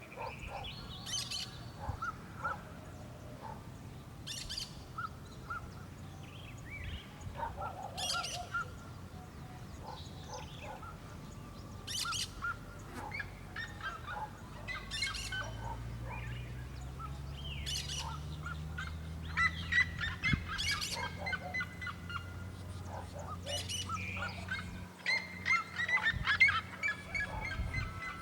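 Cactus parakeet (periquito da caatinga) calling and chattering: a harsh screech about every three to four seconds, with quicker chirps in between that grow busier in the second half.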